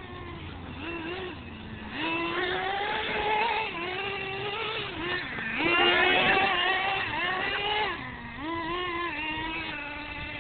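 Small nitro-fuelled R/C monster truck engine running under throttle, its pitch rising and falling as it is driven, with a sharp rev and the loudest stretch in the middle.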